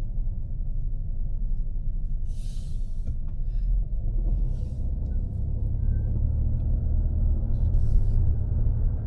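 Low, steady road and engine rumble heard inside a moving car's cabin, with brief hissing swishes about two and a half, four and a half and eight seconds in.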